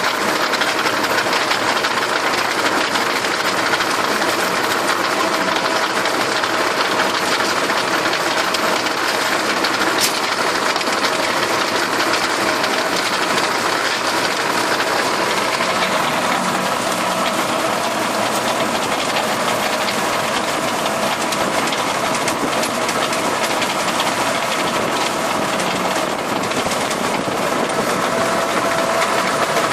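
Farm tractor's engine running steadily while it drives a rotary implement, the engine's hum mixed with the implement's mechanical clatter. The sound changes slightly about halfway through.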